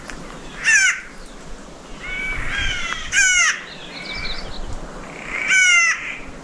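Harsh, grating bird calls in a pine forest: three loud calls about two and a half seconds apart, with softer, shorter calls between them.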